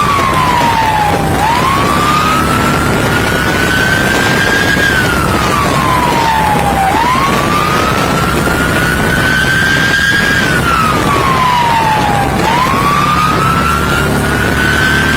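Police siren on a slow wail: one tone that rises slowly and falls, about three cycles roughly five and a half seconds apart, over steady engine and road noise.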